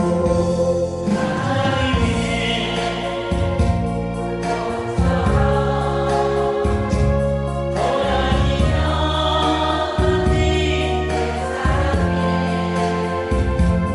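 A song with singing over an instrumental backing track with a steady, sustained bass line; the vocals sound like several voices together.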